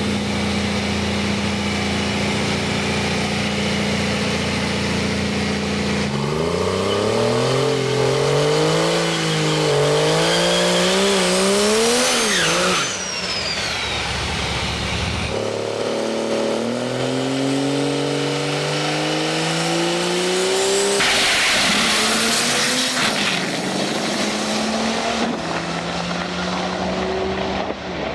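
Drag race car engines at the strip: a steady engine note, then cars accelerating hard with the engine pitch climbing and stepping through the run, twice in turn.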